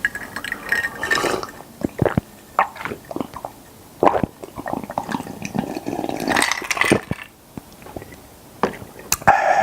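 Close-up wet mouth sounds of eating and drinking: squishing and sips with many sharp smacks and clicks at irregular intervals.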